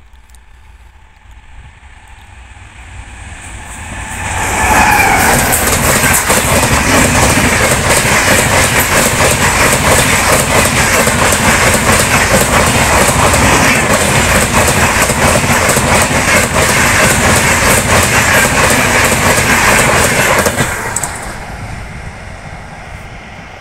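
Indian Railways express train of red passenger coaches passing close at full speed. The rumble builds over the first few seconds into a loud, steady rush of wheels with rapid clickety-clack over the rail joints for about sixteen seconds. It drops off sharply as the last coach passes, then fades as the train moves away.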